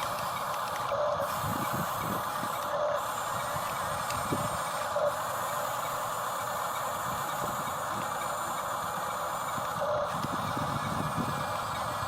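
Small electric motors and plastic gearboxes of a radio-controlled construction toy whirring steadily as the machine works, with a few short hitches and light knocks.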